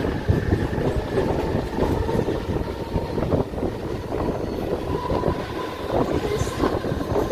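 Mumbai suburban electric local train running after pulling out of a station, heard from inside the luggage coach: a steady rumble with constant small knocks and rattles from the wheels and carriage, and a faint steady whine.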